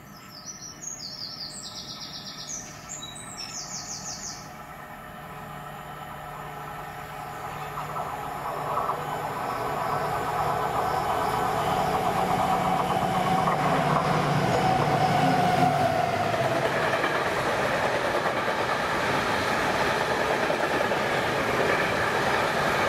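A diesel locomotive-hauled train approaching and passing on the main line, its engine hum and wheel and rail noise building to a steady din. Birds chirp briefly at the start.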